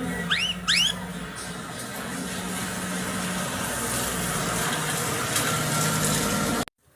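Yellow-vented bulbul giving two quick, sharply rising and falling notes about half a second in, followed by a steady loud hiss with a low hum that cuts off abruptly near the end.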